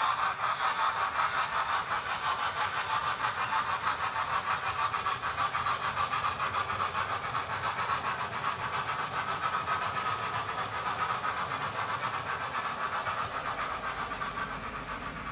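Railway coaches rolling past, their wheels clicking over the rail joints in a quick steady rhythm of about three to four beats a second, slowly fading as the train moves on.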